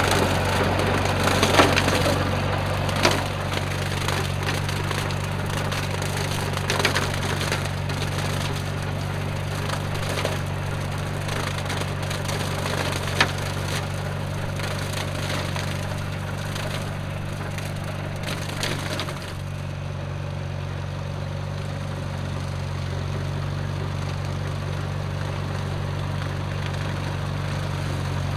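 Tractor engine running steadily while a bush hog (rotary cutter) shreds stalks with dense crackling and snapping. About two-thirds of the way through the crackling stops and only the steady engine is left.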